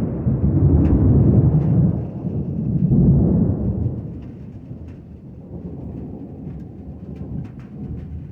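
Deep rolling thunder rumbling low, swelling once more about three seconds in and then dying away, over light rain with scattered raindrop ticks.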